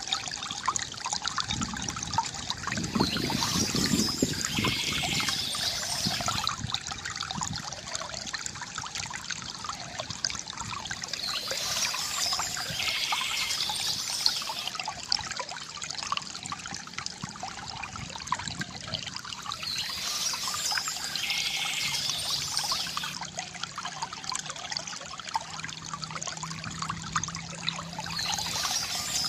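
Water trickling and pouring steadily from a bamboo fountain, with a brighter, higher-pitched patch of sound returning about every eight seconds.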